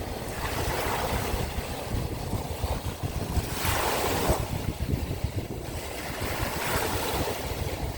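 Sea waves breaking and washing onto the shore, with wind rumbling on the microphone; a louder wave breaks about halfway through.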